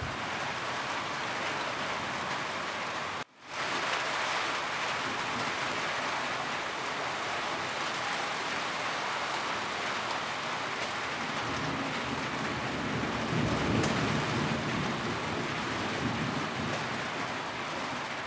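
Steady rain falling on a roof, a dense even patter. The sound cuts out for a moment about three seconds in. A low rumble of thunder swells in the second half.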